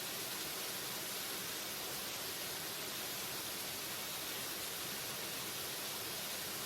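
Waterfall rushing in an even, unbroken hiss that leans toward the high end, with no change in level.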